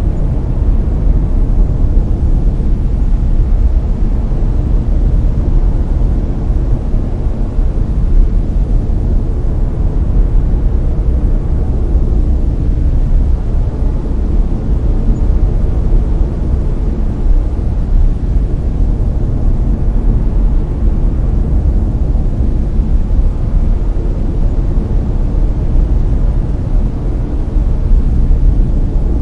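Brown noise: a steady, loud, deep rushing hiss with most of its energy in the low end, unchanging throughout.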